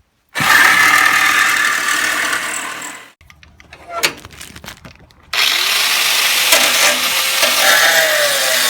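A handheld power tool running in two bursts of a few seconds each, each cutting in suddenly at full speed and winding down when released.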